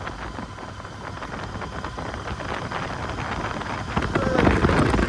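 Wind buffeting a handheld phone's microphone on a moving motorcycle, with riding noise underneath. It gets louder about four seconds in.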